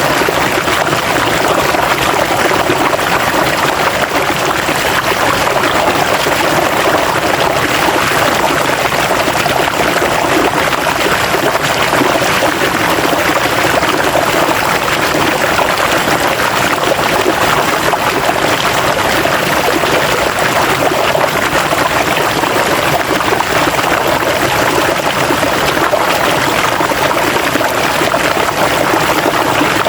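River water flowing steadily over rocks, a continuous rushing and burbling with no breaks.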